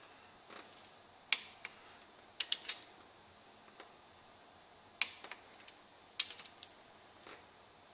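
Sharp metal clicks and clacks from hand tools on the connecting rod bolts as they are torqued, likely a click-type torque wrench set to 25 foot-pounds: a single click about a second in, three quick ones a second later, another near five seconds and a short cluster around six seconds.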